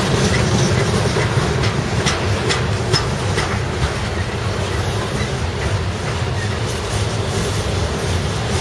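Freight train of ore cars rolling past: a steady low rumble of the wheels on the rails with a clickety-clack over the rail joints, the clicks clearest in the first few seconds.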